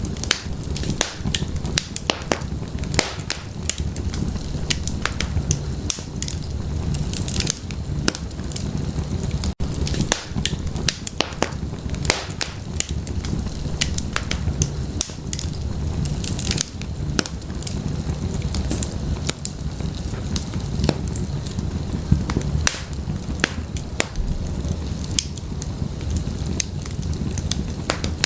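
Firewood burning in an open fireplace: frequent irregular sharp crackles and pops over a steady low rumble of the flames. The sound drops out for an instant about nine and a half seconds in.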